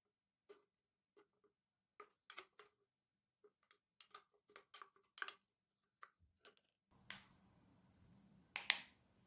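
Faint, irregular clinks and taps of kitchen utensils against glassware and dishes. The loudest clink comes near the end.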